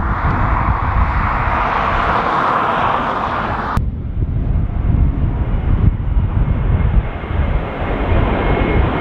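Jet airliner noise under heavy wind rumble on the microphone. A steady rushing sound cuts off abruptly a little under four seconds in. It gives way to an Airbus A321neo's engines on approach, with a faint steady whine.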